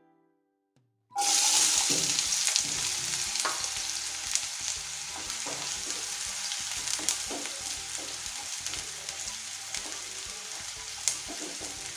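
Finely chopped onion hitting hot oil in a frying pan: a sizzle starts suddenly about a second in and slowly settles, with the light clicks of a spoon stirring the onion.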